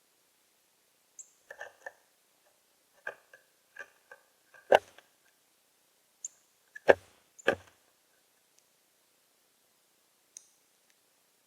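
Small birds at a feeder: scattered light pecking taps and clicks, three sharper knocks near the middle, and a few very brief high chirps.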